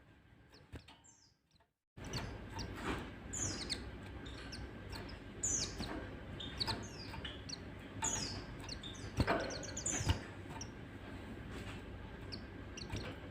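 White-eyes (pleci) chirping and twittering in quick, high, falling notes. The sound drops almost to silence just before two seconds in, then the chirping resumes, with a couple of sharp clicks about nine and ten seconds in.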